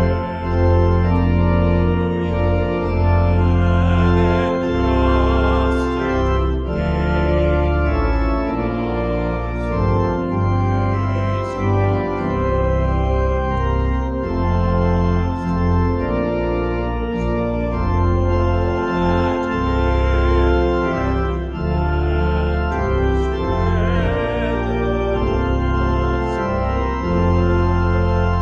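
Organ playing slow, sustained chords over a deep bass line, the harmony changing every second or two: music in a church service.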